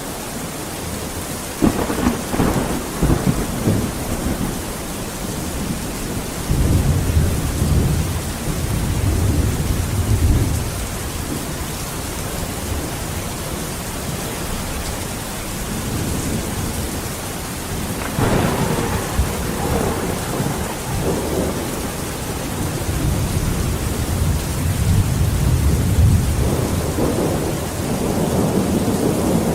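Steady heavy rain hissing throughout, with thunder rolling in and fading several times: a sharp onset about two seconds in, a longer low rumble from about 7 to 10 seconds, another about 18 seconds in, and a long roll near the end.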